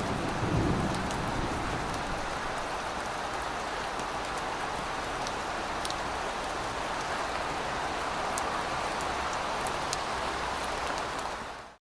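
Steady rain, an even hiss with scattered sharp drop ticks, while the tail of a low thunder rumble dies away in the first second. Near the end the rain fades out quickly to silence.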